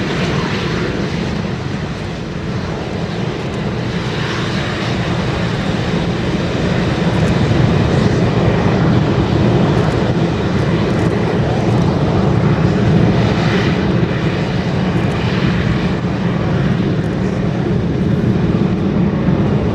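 F/A-18 Hornet jet engines (twin General Electric F404 turbofans) running steadily on the ground, a continuous low rumble with a fainter rushing hiss above it.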